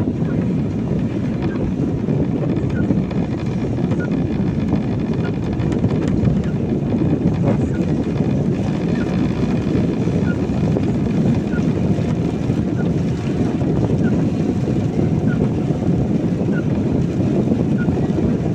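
Inside a car driving on a wet road in the rain: a steady rumble of tyres and engine with rain noise. Faint small ticks come at an even pace of a little under a second apart.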